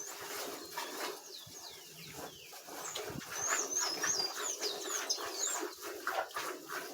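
Birds chirping, with a quick run of high, rapidly falling and rising chirps in the middle, over scattered knocks and a faint steady hum.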